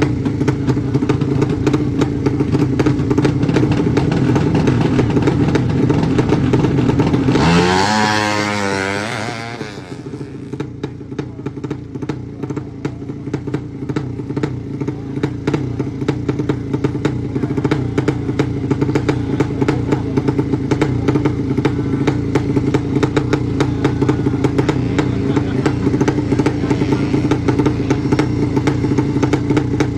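Tuned racing motorcycle engine idling steadily, with a sharp rev about eight seconds in that sweeps up and back down before it settles into idle again.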